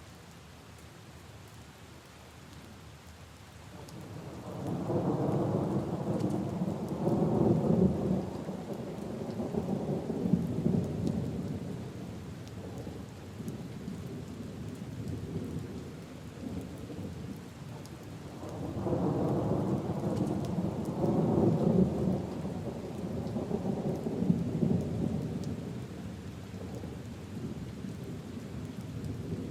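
Steady rain falling on leaves and puddles, with two long rolls of thunder rumbling through it, the first starting about four seconds in and the second a little past the middle.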